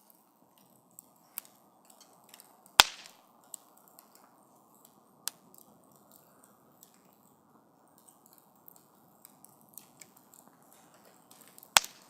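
Wood campfire burning with a soft steady hiss and scattered small crackles, with two loud sharp pops, one about three seconds in and one near the end.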